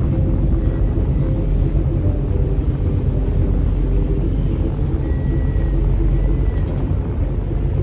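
River passenger boat's engine running steadily under way: a constant low rumble with a steady hum over it.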